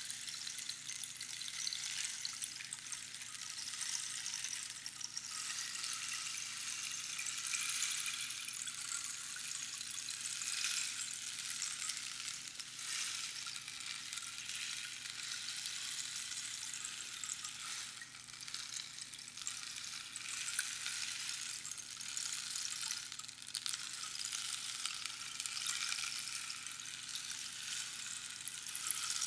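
Rainstick with its pebbles trickling down over the inner pins in a continuous rain-like patter, swelling and easing every few seconds.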